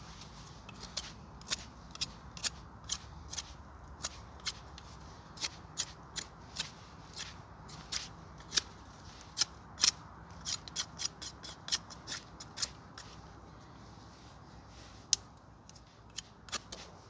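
A series of sharp, irregular clicks and snaps, roughly one or two a second, thinning out near the end.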